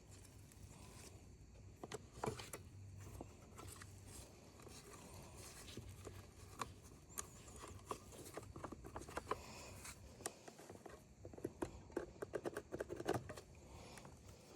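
Faint, scattered small clicks and taps of parts and tools being handled, over a low steady hum.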